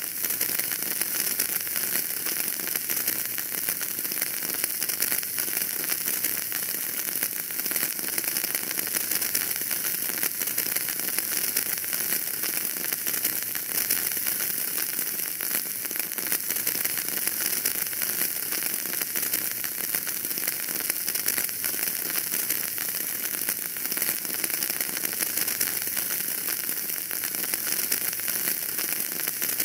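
Fireplace fire crackling steadily: a dense run of small pops over a high hiss.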